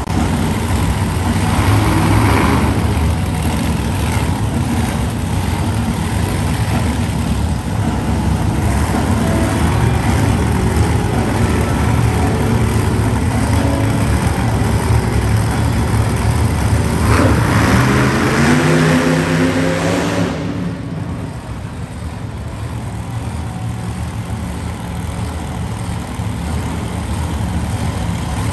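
Monster truck engines running hard through a race, with a loud rev that climbs in pitch about two-thirds of the way in before the engine note drops back and eases off.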